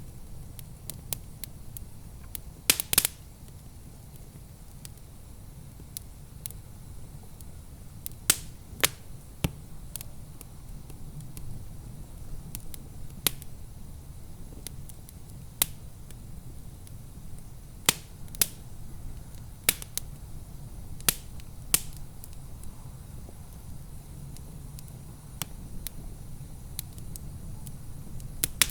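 Wood fire crackling in a fireplace: irregular sharp pops and snaps, a cluster of loud ones about three seconds in, over a steady low rumble of the burning fire.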